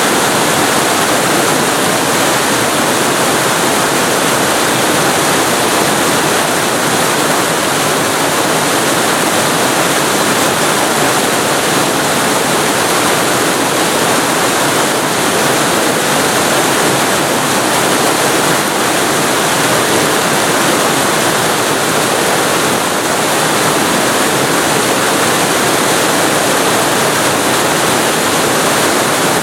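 Waterfall heard from very close, a loud, steady, unbroken rush of falling water.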